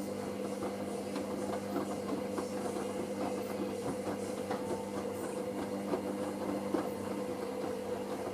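Hoover SIX AAA160 washing machine's drum motor turning the drum during the wash. It is a steady hum with frequent light clicks and knocks from the laundry tumbling inside.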